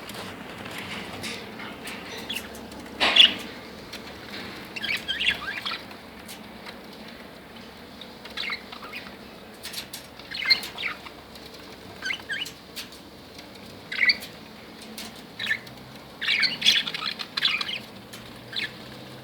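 Budgerigars chirping and chattering in short, repeated bursts of high calls, the loudest about three seconds in.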